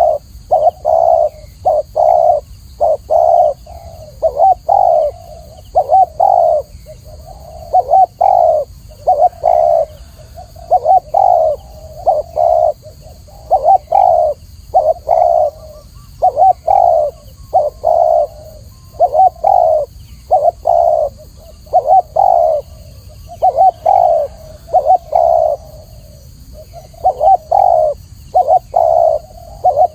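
Spotted dove cooing over and over: short phrases of two or three low hooting coos, repeated with only brief gaps.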